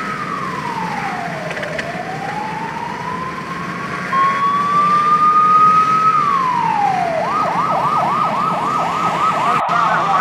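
Police-style siren wailing in slow falls and rises, louder from about four seconds in, then switching to a rapid yelp about seven seconds in.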